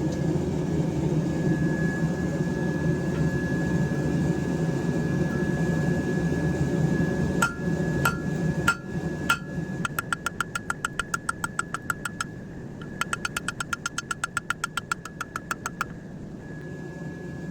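Hammer blows on hot knife steel over an anvil, forging in the single bevel. The first four blows are spaced apart and ring, followed by two fast runs of rapid strikes with a short pause between. Before the hammering, a steady low roar fills the first several seconds.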